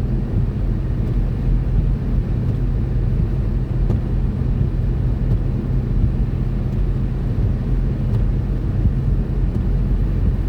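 Steady cabin noise of a car driving slowly: a low, even rumble of engine and tyres.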